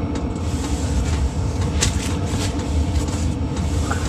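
VEVOR all-in-one diesel heater running, its blower and burner giving a steady low rumble.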